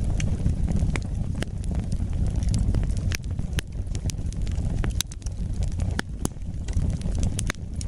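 Wood fire burning in a fireplace: a steady low rush of flames with a dozen or so sharp crackles and pops at irregular intervals.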